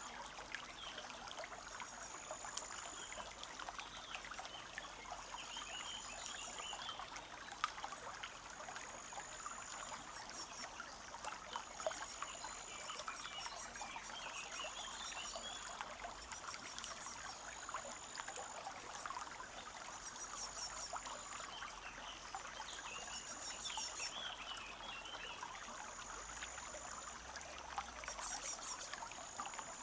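Forest brook trickling steadily. Over it, a high thin note repeats about every two and a half seconds, with occasional twittering of birdsong.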